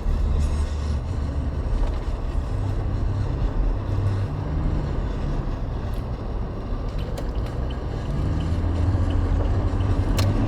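A moving vehicle's engine and road noise, a steady low drone.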